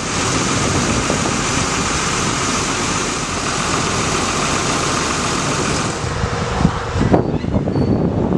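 Ford F650 bucket truck's engine running at idle, a steady sound; about seven seconds in it gives way abruptly to gusty wind on the microphone.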